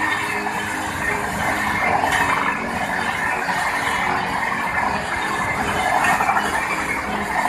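Passenger coaches of an express train passing close by at speed: a steady, loud rush of wheels running on the rails.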